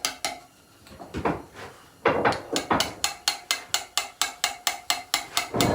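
Hammer and chisel tapping at a headstone, cutting letters into the stone in quick, even strikes of about five a second. The strikes pause briefly after the start and resume steadily about two seconds in.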